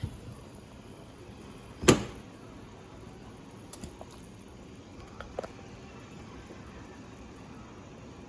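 A single sharp knock about two seconds in, then a few faint clicks, over a low steady background.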